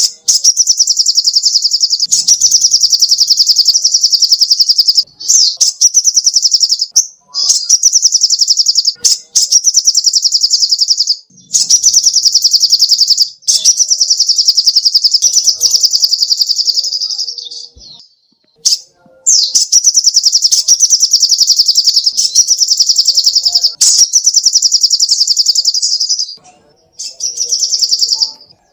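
Sogoh ontong songbird singing a high-pitched, very rapid trill in long phrases of several seconds each, separated by brief pauses.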